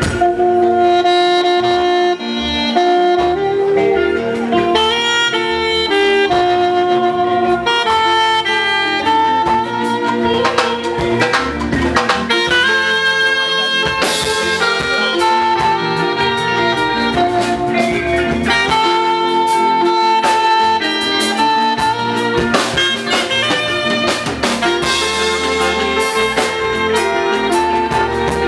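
Live fuji band playing an instrumental passage between sung lines: a held, melodic lead line over drums and percussion.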